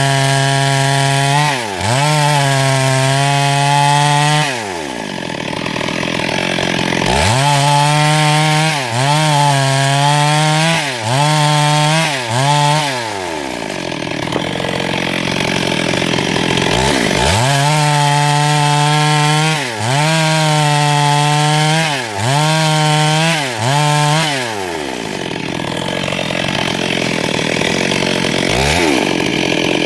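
Two-stroke chainsaw run at high revs in repeated stretches of a second or three, the pitch dropping briefly and climbing back each time the throttle is eased and reopened. This happens about nine times, with a few longer spells of lower, rougher running in between, as it works through wood.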